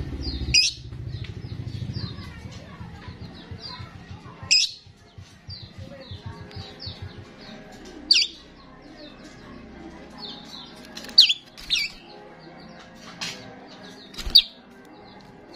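Starling singing: a busy run of short chirps and whistles, broken by about six loud, sharp, downward-sweeping whistles every few seconds. A low rapid buzz underneath fades out about halfway through.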